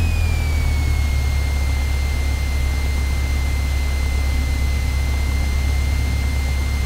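Cessna 172 Skyhawk's piston engine and propeller running steadily at low power, heard inside the cockpit, with a deep steady drone. A thin high whine slides down in pitch in the first second, then holds steady.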